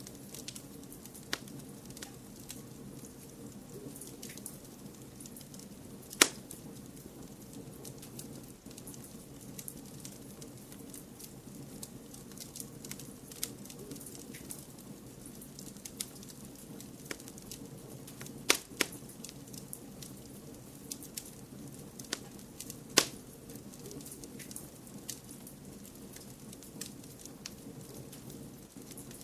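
Wood fire crackling in a fireplace over a steady low rush, with scattered small pops and three sharp, louder snaps: one about six seconds in, and two more past the middle.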